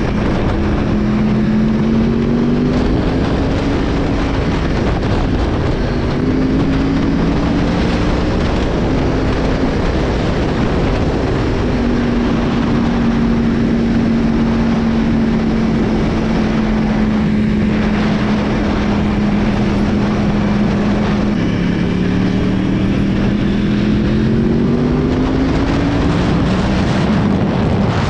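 Moped engine running under way, its pitch climbing in the first few seconds, holding steady through the middle and climbing again near the end, over a heavy rush of wind noise.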